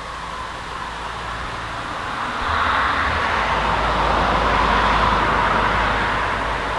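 Distant roar of a jet airliner passing overhead at high altitude: a steady rushing noise that swells about two and a half seconds in, peaks, then eases slightly.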